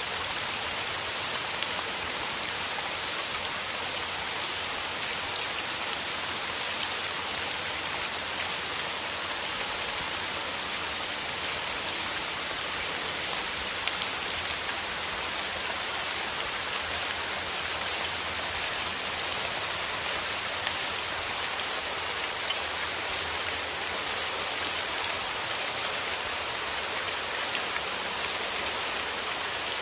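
Steady rain: an even hiss of falling rain with a dense patter of individual drops hitting surfaces.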